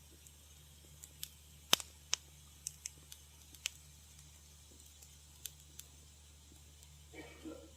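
Wood fire in a fireplace crackling: irregular sharp pops and snaps, a dozen or so, the loudest about two seconds in. A brief soft rush of noise near the end.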